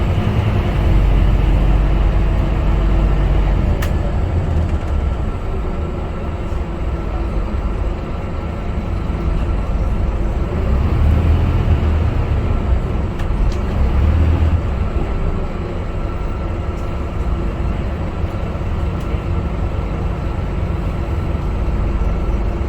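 Scania K250UB bus's five-cylinder diesel engine running under way: a steady low rumble that swells and eases with the throttle, with a faint constant whine over it.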